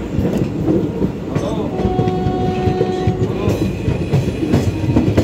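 Passenger train coach running at speed: a steady rumble with wheels clattering over the rail joints. A steady tone sounds for about a second and a half near the middle.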